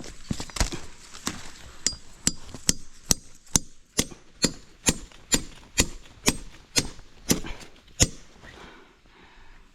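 A hand tool struck over and over, about two sharp blows a second, stopping about eight seconds in.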